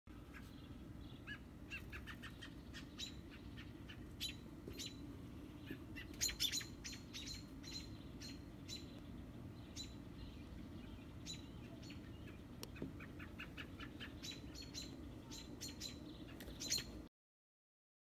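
Birds chirping: short, high chirps in quick runs, loudest in a cluster about six seconds in and again near the end, over a low steady rumble. The sound cuts off about a second before the end.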